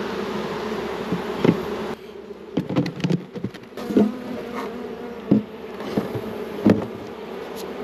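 Honey bees buzzing around an open hive in a steady hum, with about six sharp wooden knocks and clunks as the hive boxes and frames are set back in place.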